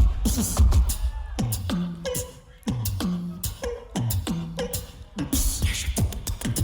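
Tag-team beatboxing by two performers: hard kick and snare hits in a steady beat, under a vocal bass tone that drops in pitch about once a second.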